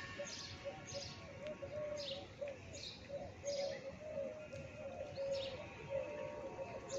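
Birds calling: short high chirps repeat about every half second to second over a lower, wavering run of notes that goes on without a break.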